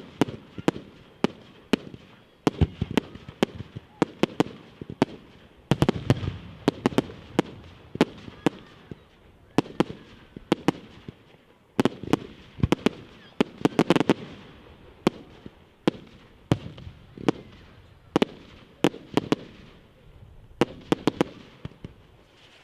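Fireworks going off in a display: an irregular run of sharp bangs, at times several a second in quick clusters, each followed by a short low rumble. The bangs stop near the end.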